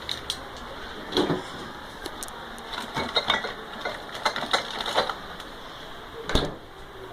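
Steady rain noise with a string of irregular clicks and knocks, and a heavier thump about six seconds in.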